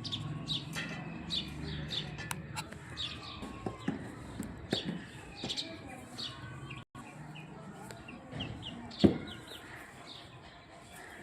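Many small birds chirping, short calls repeating throughout, with one sharp click about nine seconds in.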